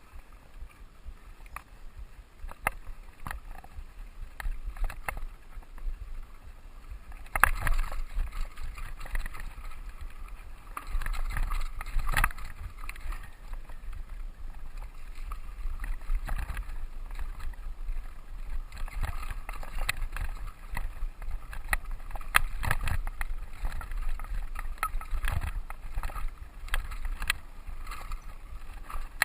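Mountain bike riding over a dirt trail: low rolling rumble with frequent rattles and knocks. It gets louder from about seven seconds in.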